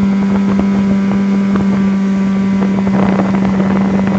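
Evinrude (Johnson) 9.9 hp outboard motor running at steady speed under way, a constant hum that does not change, with wind buffeting the microphone.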